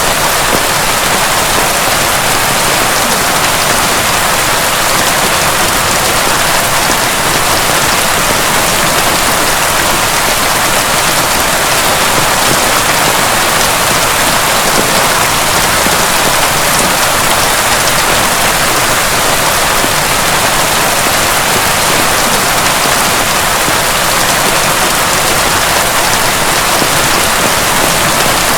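Heavy rain falling steadily, a dense, even patter with no thunder.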